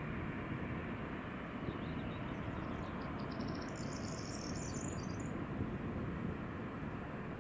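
A small songbird sings a quick run of high chirps ending in a trill, from about two to five seconds in, over a steady rushing background noise.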